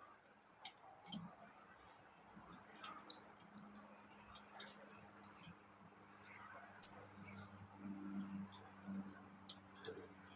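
Blue-crowned hanging parrots (serindit) giving scattered short, thin, very high-pitched chirps, with one loud sharp chirp about seven seconds in.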